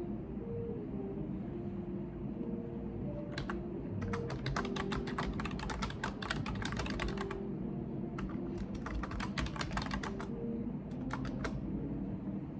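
Typing on a computer keyboard: rapid key clicks in four runs of varying length, the longest about three seconds, over a steady low room hum.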